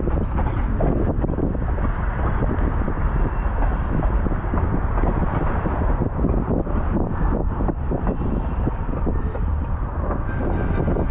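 Baldwin-Westinghouse electric steeplecab locomotive rolling along the track, a steady low rumble with irregular clanks and rattles of wheels and running gear, with wind on the microphone.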